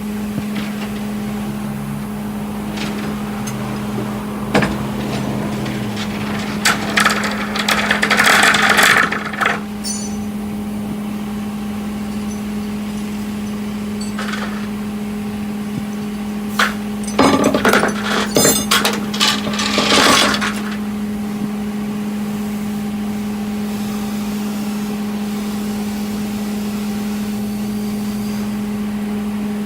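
A steady, even hum at one pitch runs throughout. Two spells of sharp metallic clanking and rattling come through it, one about seven seconds in and one about seventeen seconds in.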